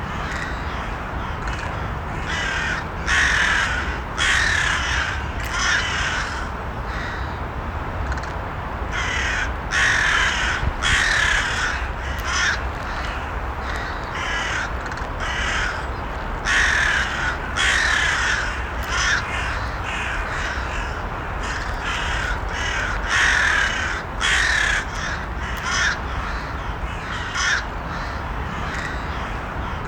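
Crows cawing, in runs of several short caws that recur every few seconds, over a steady low background rumble.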